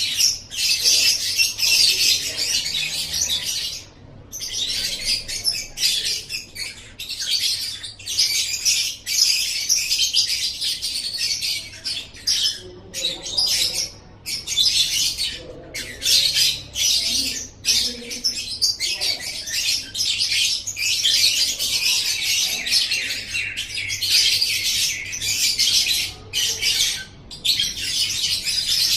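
Lovebird singing: a long run of fast, high-pitched chattering, broken only by brief pauses.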